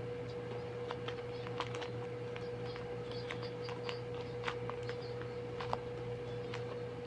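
Paper and foam being handled, giving soft scattered clicks and crinkles, over a steady hum.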